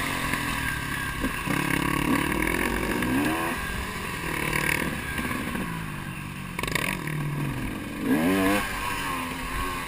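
KTM enduro motorcycle engine being ridden hard on a dirt track, its pitch climbing and dropping several times with throttle and gear changes, with a quick rev near the end.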